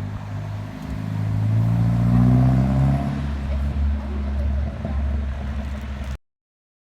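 Heavy diesel truck engine accelerating close by: a deep rumble that climbs in pitch for a second or two, then settles into a steady loud drone, and cuts off suddenly near the end.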